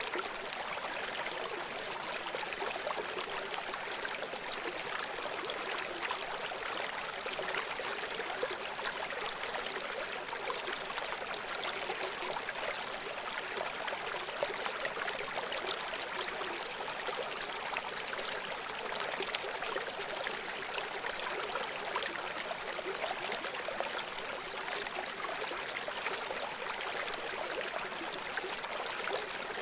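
Running stream: water flowing and babbling over rocks in a steady rushing wash, with fine splashing and trickling detail.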